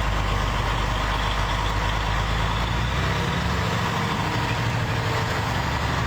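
A steady low engine-like rumble under a broad, even rushing noise, the kind of sound a running vehicle makes.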